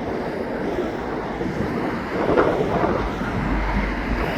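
Wind buffeting the microphone outdoors: a steady rough rumble, with a stronger low gust about three seconds in.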